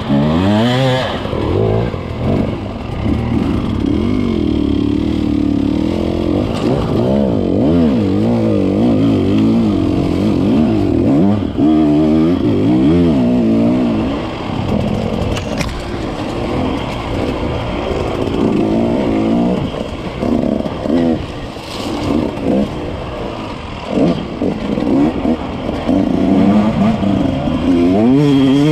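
Dirt bike engine revving up and down again and again, its pitch rising and falling with the throttle as the bike is ridden.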